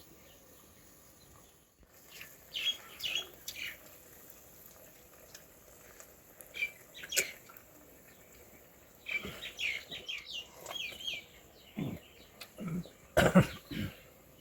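Birds chirping in short, scattered bursts, with a few low knocks near the end, one of them loud and sharp.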